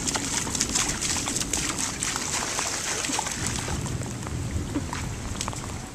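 Heavy rain falling close by, a dense hiss made of many separate drops striking, over a low rumble.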